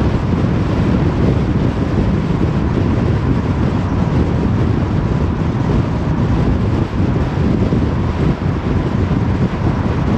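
Steady road noise of a car driving at motorway speed: tyre and wind noise, heaviest in the low end, with a faint steady tone above it.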